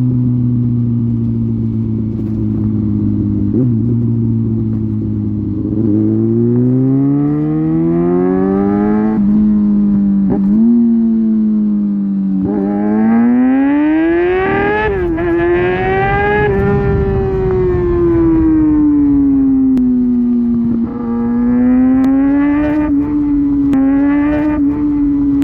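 Kawasaki Ninja ZX-6R inline-four sport bike with an SC-Project aftermarket exhaust, accelerating hard on the highway: the engine note climbs, dips briefly at gear changes, and climbs again. Past the middle it peaks, then falls away as the throttle eases and holds a steady cruise, with wind rush underneath.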